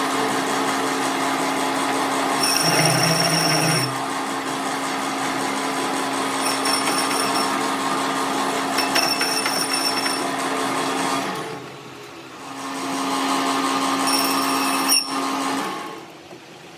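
Electric power tool in a metalworking shop running with a steady hum, with several short bursts of higher-pitched whine as it works. It drops away briefly about two-thirds through, comes back, then stops about a second before the end.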